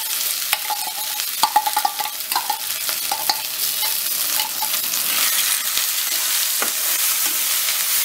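Ground lentil-and-shrimp mixture sizzling in hot oil in a kadai. A spoon clicks and scrapes against the pan in the first five seconds, then the sizzle continues as a steady hiss.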